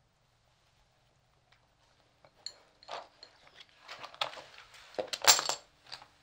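Poker chips clicking and clinking on the table, a run of sharp clacks that begins about two seconds in and is loudest near the end.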